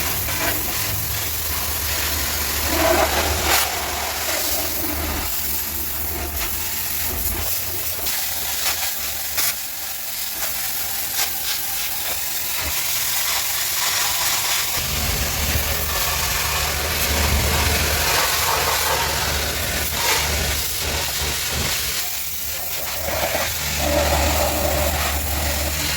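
Pressure washer spraying water onto a car: a steady hiss of spray, with a low machine hum that fades in the middle and comes back strongly in the second half.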